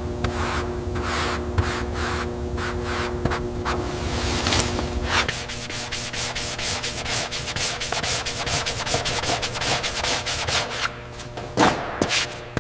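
Sanding by hand, rhythmic back-and-forth strokes of abrasive on the car's bodywork. The strokes come about twice a second at first and then quicken to about four or five a second after about five seconds.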